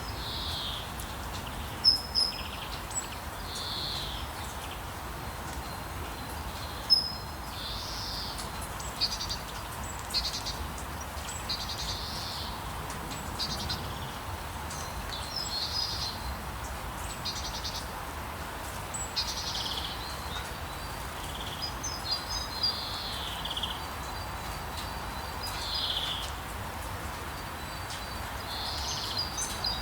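Light, steady rain with songbirds chirping and calling throughout in short calls every second or so. A few sharp ticks stand out, the loudest about two and seven seconds in.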